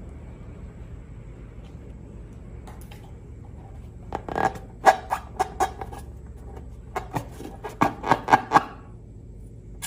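Slime being pressed and squished by hand, giving short, sharp popping clicks in two quick runs, the first about four seconds in and the second a second or so later.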